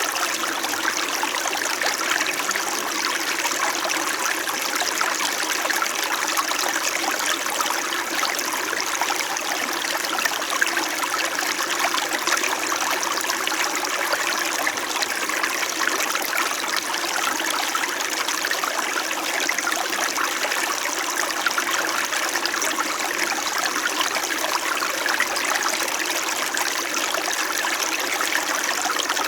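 Small winter mountain stream flowing steadily over rocks, a continuous babbling and trickling of water.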